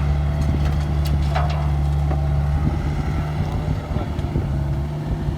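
Diesel engine of a construction machine running steadily with a deep drone, with a few light knocks in the first second and a half.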